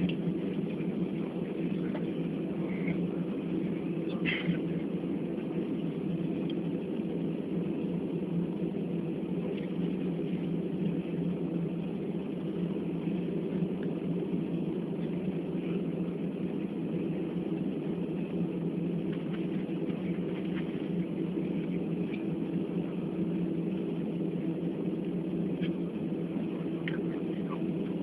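Steady low drone of an airliner cabin on the ground after landing, with a few faint brief higher sounds over it.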